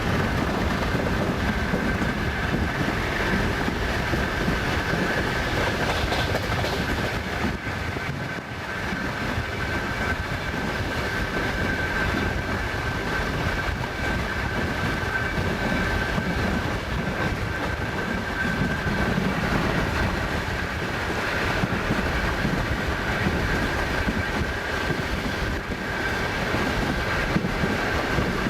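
Passenger train running at speed, heard from inside the carriage by the window: wheels clattering over the rail joints over a steady rumble, with a thin, steady high whine running through it.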